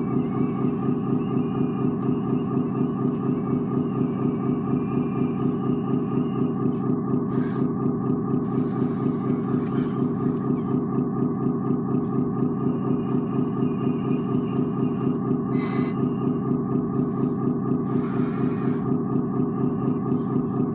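An RC construction vehicle's sound unit playing an idling diesel engine through its small speaker: a steady, evenly pulsing drone with no deep bass. A few short hisses come over it, one about halfway through and another near the end.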